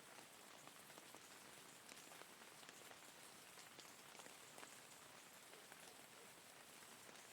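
Faint, steady rain: an even hiss with many separate drops ticking through it.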